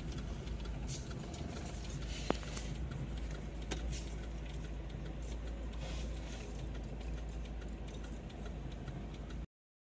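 Steady rumble of a moving vehicle's engine and road noise, with scattered faint ticks and one sharp click about two seconds in. It cuts off suddenly near the end.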